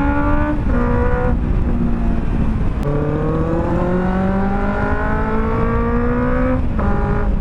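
Benelli 600 GT's inline-four engine accelerating, rising in pitch and dropping at quick upshifts about half a second in and just over a second in, then one long rising pull that ends in another upshift near the end.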